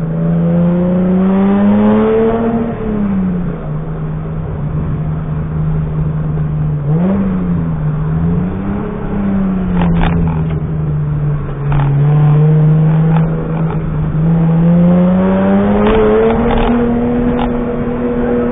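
BMW E30 rally car's engine heard from inside the cabin at full stage pace: the engine note climbs in the first couple of seconds, drops back, blips up and down twice about seven to nine seconds in, then climbs again and holds high near the end. A few short knocks and clicks come through in the second half.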